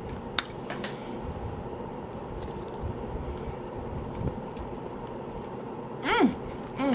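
A person chewing food on the microphone, with a couple of sharp clicks about half a second and a second in, over a steady hum. About six seconds in there is a short voiced sound with a sliding pitch.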